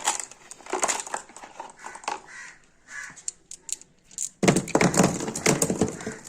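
Glass marbles clicking as they are picked out of a toy tractor's plastic trolley and dropped into a box, with scattered single clicks, then a denser clatter of marbles knocking together from about four seconds in.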